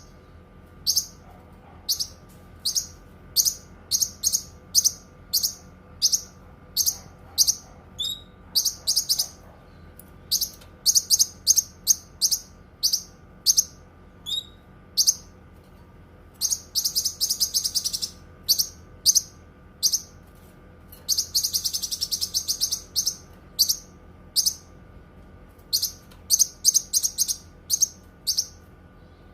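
Cucak kinoi singing: a run of short, high, sharp chirps, often a few per second, broken twice by longer rapid buzzing trills, one about two-thirds of the way in and a longer one a little later.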